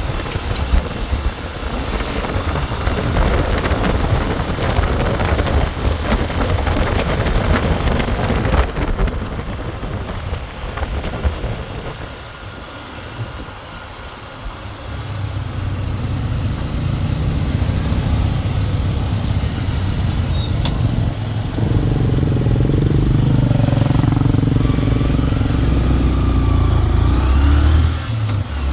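Road vehicle engine noise heard while riding through town traffic, with rushing noise over it. A low engine rumble grows louder in the second half, its pitch rising and falling as it revs.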